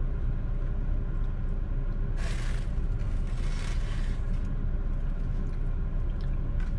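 Steady low rumble of a car idling, heard inside the cabin, with two brief scraping sounds about two and three and a half seconds in.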